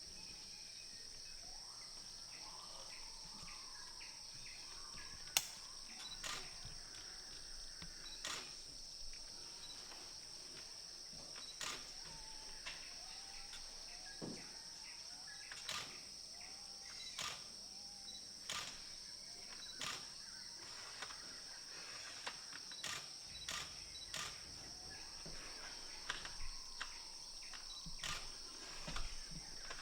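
Outdoor forest ambience: a steady high-pitched insect drone, with a bird giving a run of short arching calls about a dozen to twenty seconds in, and scattered sharp clicks throughout.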